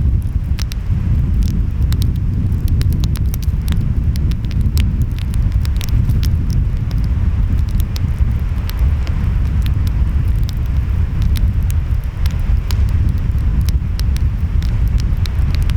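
Wood fire crackling with many sharp pops, over a steady low rumble of ocean waves and wind.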